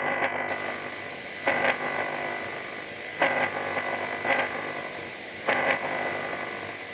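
Power electronics harsh-noise track: a dense, distorted electronic drone with a steady high whine, hit by sharp, louder bursts every second or two, several of them in quick pairs.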